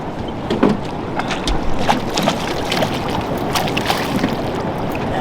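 Steady rushing noise of a boat on the river, with wind on the microphone, broken by several short sharp splashes and knocks while a walleye is netted beside the boat.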